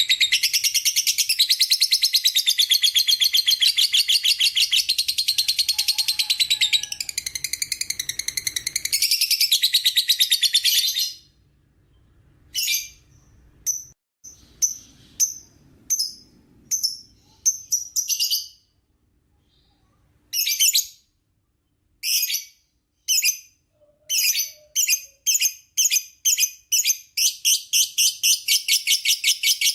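Lovebird ngekek: a long, fast, high-pitched chattering trill for about eleven seconds. It breaks into short separate chirp bursts with gaps between them, then builds back into fast continuous chatter over the last several seconds.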